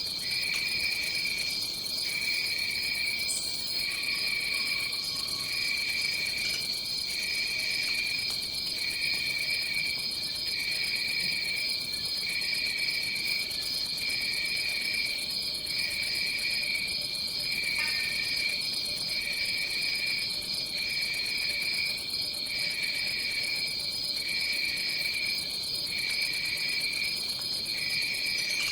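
Tropical rainforest insect chorus: a continuous high-pitched trill, with a lower trill under it that breaks off briefly about once a second in an even rhythm.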